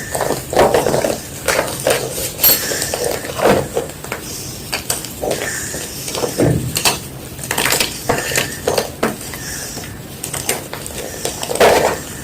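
A block of white gym chalk being crunched: irregular crisp crunches and crackles with short pauses between them, the loudest about a second in, at three and a half seconds and near the end.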